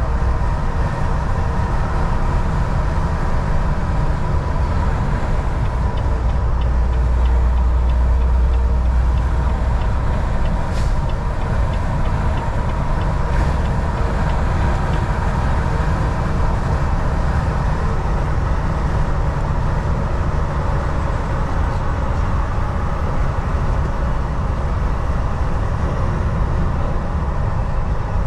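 Semi truck driving, with the steady low drone of its diesel engine and road noise heard from the cab. The low rumble swells briefly about a quarter of the way in.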